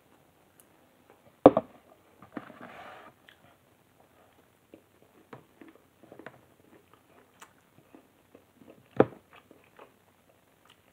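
A person chewing a mouthful of shrimp, steak and vegetables, with light clicks of a metal fork in a plastic food container. Two sharp knocks stand out, one about a second and a half in and one near the end.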